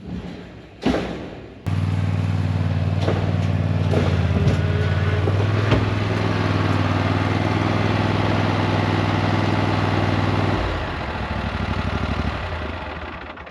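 Engine running steadily at a constant speed. It starts abruptly after a single loud knock, then drops and fades away near the end.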